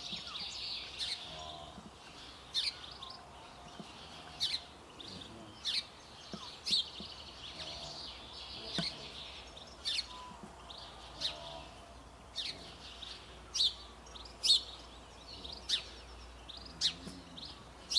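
Songbirds calling: one short, sharp, high call repeated about once a second, over fainter twittering.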